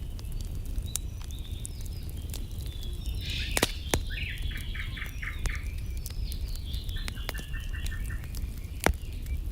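Wood fire crackling with scattered sharp pops, while a songbird calls twice in the background, each time a quick run of repeated chattering notes.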